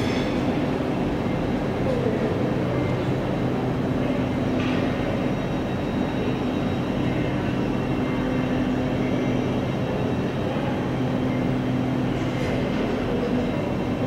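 Electric InterCity 225 passenger train pulling slowly out of the station: a steady low hum with the rumble of its wheels on the track.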